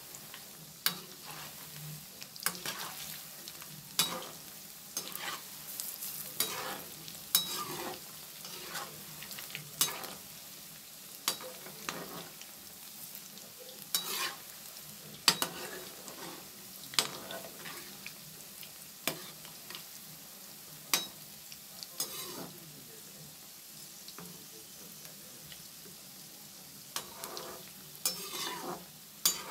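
Methi pakoras deep-frying in hot oil in a kadhai: a steady sizzle with sharp clicks about every second. At the start a slotted spoon turns the pakoras in the oil.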